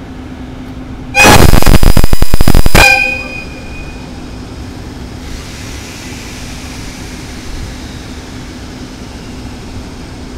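A JNR Class EF65 electric locomotive's horn sounds one blast of about a second and a half, so loud that it clips and distorts. A steady low hum continues underneath.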